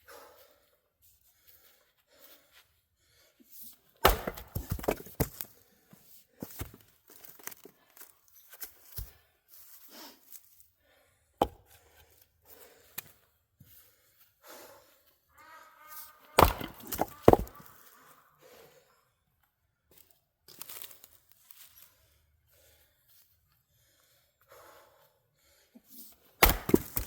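Fiskars X27 splitting axe striking firewood rounds in several heavy blows spread through, the wood cracking and tearing apart after some of the strikes.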